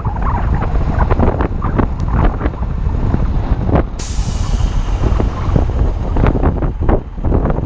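Strong wind buffeting the microphone: a heavy low rumble with irregular gusty surges. About four seconds in, a sudden hiss starts and fades over a second or so.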